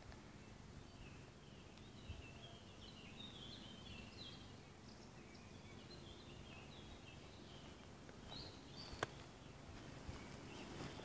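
A songbird singing faintly: a long run of quick, high chirping notes repeated for several seconds over quiet forest background, with one sharp tick near the end.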